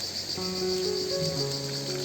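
Insects chirping in a steady, rapidly pulsing high trill, with background music of long held notes coming in about half a second in.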